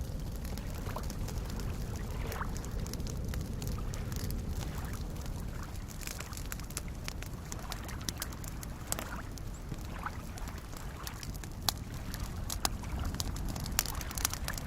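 Wood fire crackling, with sharp pops that come more often in the second half, over soft lake waves lapping with a steady low wash.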